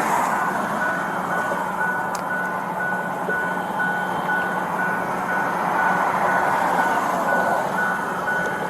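Tow truck's reversing alarm beeping as it backs up: one high tone repeated in short, evenly spaced beeps, over steady truck engine and road noise.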